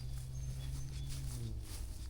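Footsteps of a hiker walking along a dirt trail, about two steps a second, over a low steady hum that drops in pitch and fades about one and a half seconds in. Faint bird chirps sit high above.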